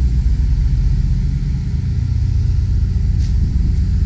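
Semi tractor's diesel engine idling, a steady low rumble.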